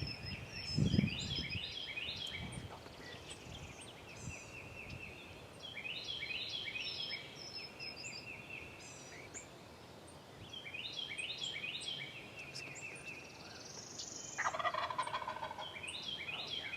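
Eastern wild turkey gobbler gobbling hard, four rapid rattling gobbles about every four to five seconds, the last one the loudest and fullest. A low thump about a second in.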